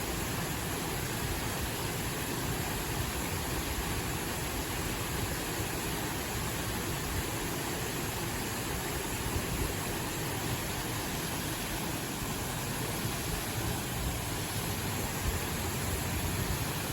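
Rushing mountain stream water, a steady even noise.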